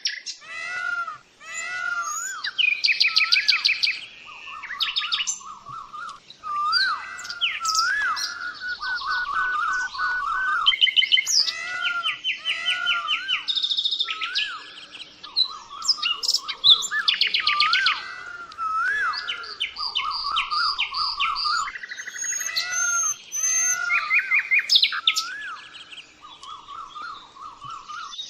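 Small birds chirping and singing without pause, with rapid trills and repeated wavering notes overlapping one another.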